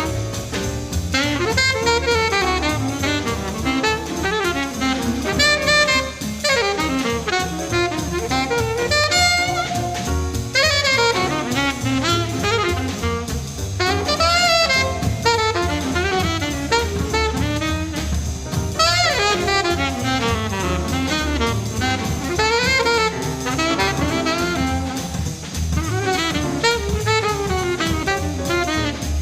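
Background jazz music: a saxophone playing a melody with brass and drum kit accompaniment.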